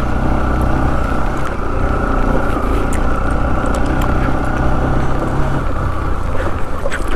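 Motorcycle running while riding, under heavy wind rumble on the microphone.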